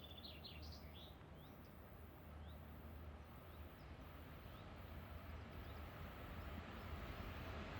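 Small birds chirping: a quick burst of calls at the start, then short rising chirps about once a second. Underneath is a faint low rumble that slowly grows louder toward the end, from a freight train approaching in the distance.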